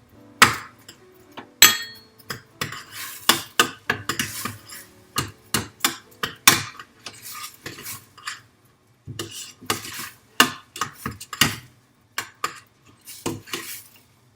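A spoon clinking and scraping irregularly against a metal pressure cooker pot as red lentils, rice and sautéed onions are stirred together.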